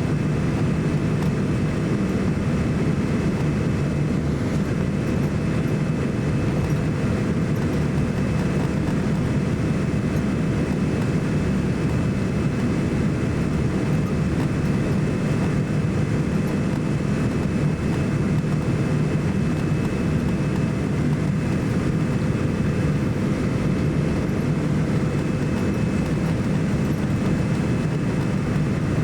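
Steady engine and airflow noise inside the cabin of a Boeing 787-9 airliner, a constant low rumble with a few faint steady tones above it.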